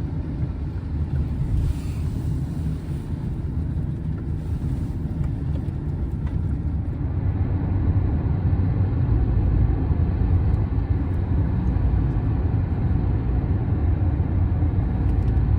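Road noise inside a moving car at highway speed: a steady low rumble of tyres and engine, growing a little louder about halfway through.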